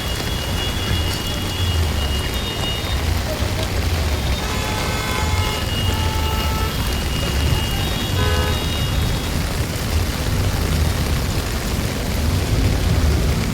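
Heavy rain falling steadily, an even hiss over a constant low rumble. A few faint high tones sound briefly about five and eight seconds in.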